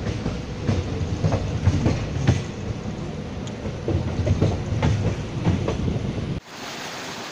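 Indian Railways passenger train running, heard from beside the coach: an irregular clickety-clack of wheels over rail joints on top of a steady low rumble. About six seconds in it cuts off suddenly to the even rush of a small waterfall.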